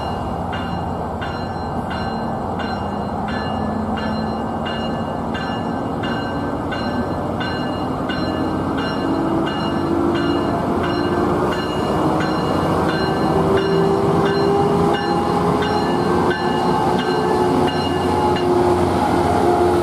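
Tri-Rail diesel locomotive pulling a commuter train out of the station. Its engine rises slowly in pitch as the train picks up speed, and it grows louder as it comes close and passes. A bell rings in an even beat, about three strokes every two seconds.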